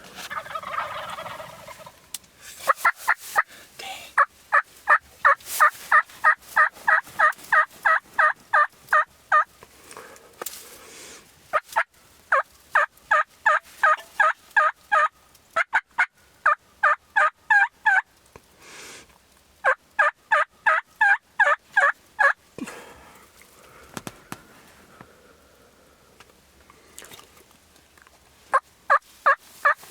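Turkey yelping in long, evenly paced runs of about four notes a second, stopping and starting again several times.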